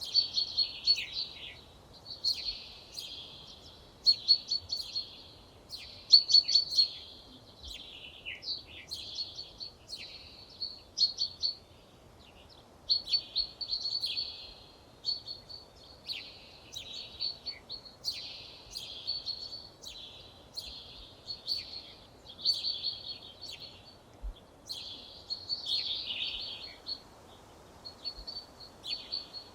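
Songbirds singing: a steady run of short, high twittering phrases, one after another with brief pauses between them.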